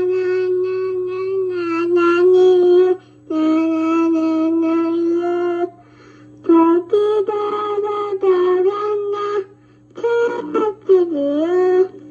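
A small child singing on an old cassette tape recording played back, long held notes in short phrases with brief pauses between them and a note that dips and rises near the end, over a steady low hum.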